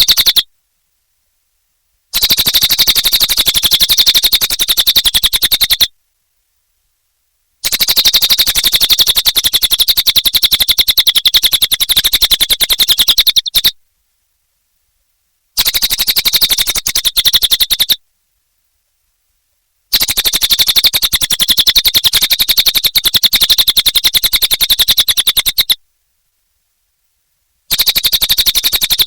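A cililin bird singing vigorously in loud bouts of very fast, high repeated notes, each burst lasting a few seconds. The bursts stop abruptly and are separated by short silences of about two seconds.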